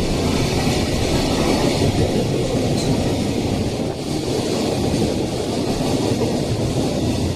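Train passing close by: a loud, steady rumble of wheels on rails.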